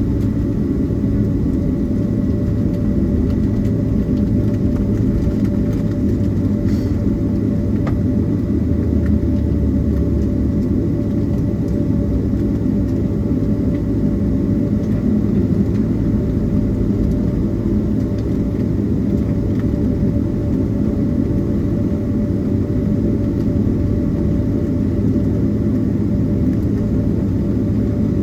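Steady low rumble inside the cabin of a Boeing 767-332ER taxiing on the ground, with an even engine hum and a faint steady high tone over it.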